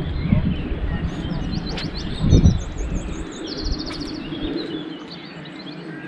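Songbirds singing in short high chirps and trills, over a low rumble that drops away about three seconds in. A low thump about two seconds in.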